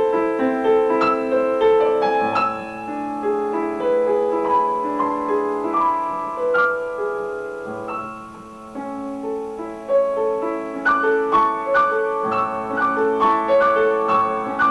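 Piano playing a melody over held chords; it grows quieter about eight seconds in, then comes back louder with quicker notes from about ten seconds.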